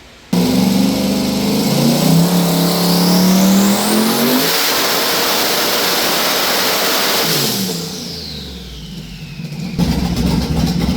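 Twin-turbo 427 LS V8 making a full-throttle pull on a hub dyno at about 30 psi of boost. The engine note and the turbos' whine climb in pitch together and hold loud at the top for a few seconds. After lift-off the whine falls away, and the engine settles to running steadily near the end.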